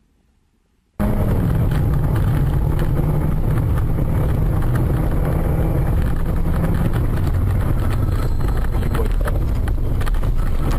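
A car's engine and road noise while driving, a steady loud hum and rush that cuts in abruptly about a second in after near silence.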